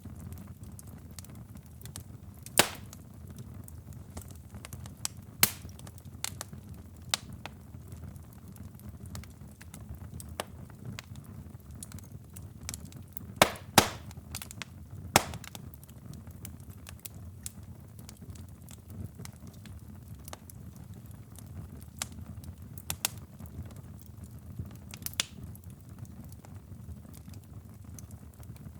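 Wood fire in a fireplace crackling over a steady low rumble of flames, with sharp pops scattered through it: a loud one a few seconds in and a cluster of three around the middle.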